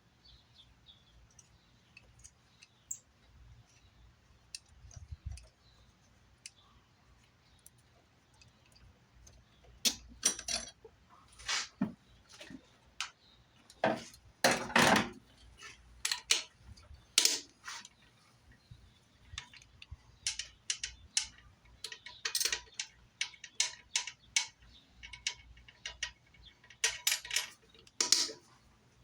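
Metal hand tools clicking and clinking in irregular sharp clicks, starting about ten seconds in after a quiet stretch.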